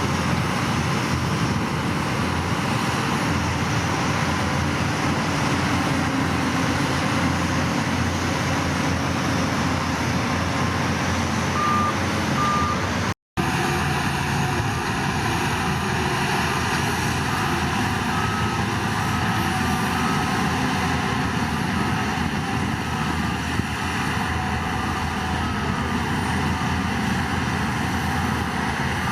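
Heavy diesel earthmoving machinery running steadily, with a reversing alarm beeping at an even pace through the second half.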